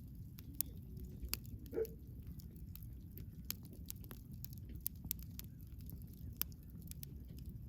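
Wood campfire burning: a low steady rumble under frequent sharp crackles and pops. A brief squeal comes just under two seconds in.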